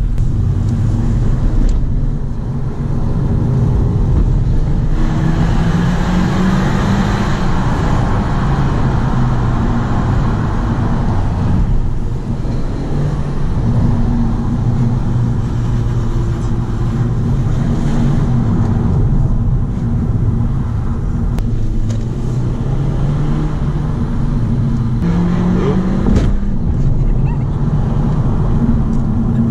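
Audi A3 1.4 TFSI's turbocharged four-cylinder petrol engine and road noise, heard from inside the cabin while driving. The engine note rises and falls as the car speeds up and slows, and it runs steady and loud throughout.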